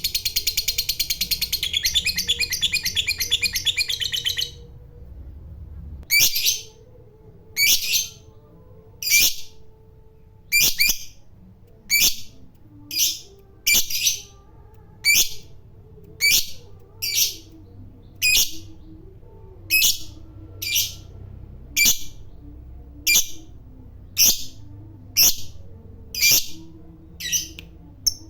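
Lovebird giving its long, rapid chattering trill (the 'ngekek'), which stops a little over four seconds in. After a short pause it gives a run of single sharp, shrill calls, about one a second.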